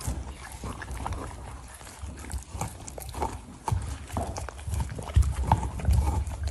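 Huskies gnawing and licking at snack chews and frozen treats: irregular clicks and knocks of teeth and tongue on the hard treats, with dull low thumps.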